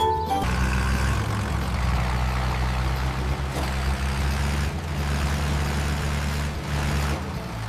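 A heavy vehicle engine running steadily with a low, even drone, starting about half a second in as music stops.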